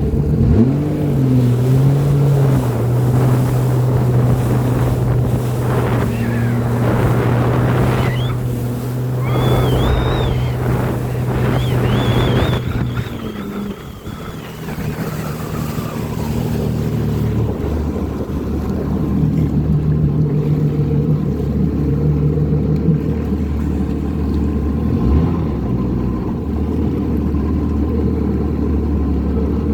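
Jet ski engine running with its pitch dipping and rising with the throttle, under wind noise on the microphone.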